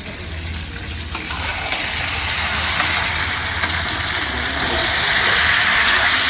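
Chicken pieces frying and sizzling in hot oil in a pan as the meat browns. The sizzle grows louder about a second and a half in and again near the end.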